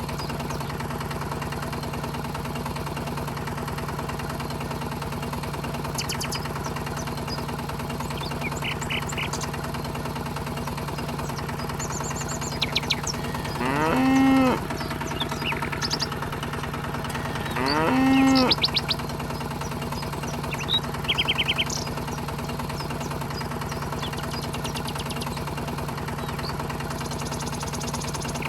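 Two drawn-out cow moos, each about a second long and rising then falling in pitch, about four seconds apart, over a steady low engine-like hum. A few short high chirps come in between.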